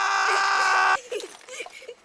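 A person's long scream held on one steady pitch, cutting off suddenly about a second in, followed by faint voices.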